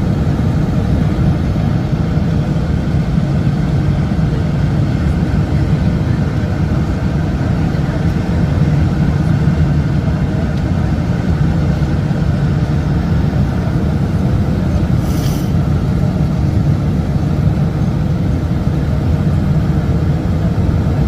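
Steady low rumble of a Boeing 747's engines and rushing air, heard from inside the passenger cabin on approach to landing. A brief hiss about 15 seconds in.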